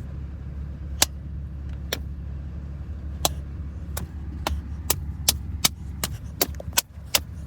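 A large ball of slime being squeezed and worked by hand, giving sharp, separate popping clicks that come irregularly and more often toward the end. Under them runs the steady low hum of the idling car.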